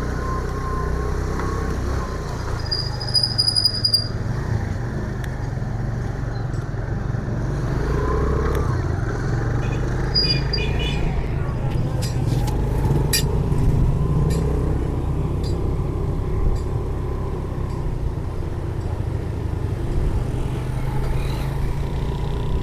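A motor vehicle running on a road, a steady low engine and road rumble throughout. A brief high tone sounds about three seconds in, short high beeps come around ten seconds in, and a few sharp clicks follow.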